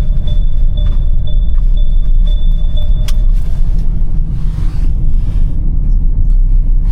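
A truck's seat belt warning chime beeping about twice a second over the low rumble of the running engine in the cab. About three seconds in, a sharp click, the belt being buckled, and the chime stops.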